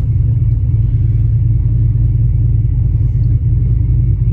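Cadillac Sedan DeVille engine idling steadily just after a cold start in sub-zero cold, a low, even rumble. The owner blames an unhappy noise from under the hood on the power steering pump or the air-conditioning compressor.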